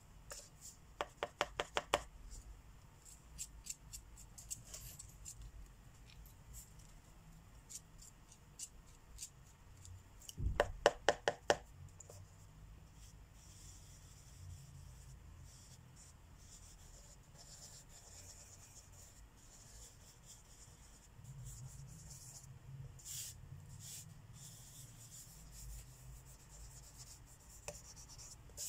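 Marker tips rubbing and scratching on paper while colouring, faint and steady. Two quick runs of rapid clicking taps, about a second in and around ten seconds in.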